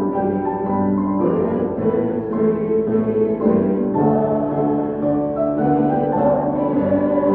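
Music: a keyboard playing slow, held chords that change about every second.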